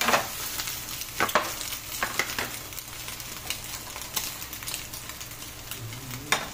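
Egg omelette with onion frying in hot coconut oil in a kadai, a steady sizzle with a few sharp knocks and scrapes of a utensil against the pan, the strongest at the very start, about a second in and near the end.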